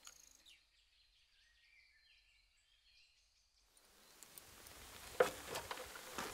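Faint bird chirps over near-quiet outdoor air. From about four seconds in, a rising rustle with several sharp clicks, the loudest about a second later.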